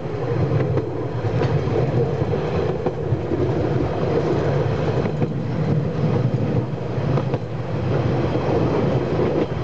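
Heritage railway carriage rolling along the track, heard from its open rear balcony: a steady rumble of wheels on rail with a few faint clicks over the rail joints.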